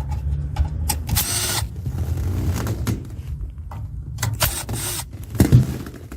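Disassembly work on a mini split air conditioner: scattered clicks and handling noises as parts are worked loose, with two short bursts of rasping noise, about a second in and again near the end, over a low steady hum.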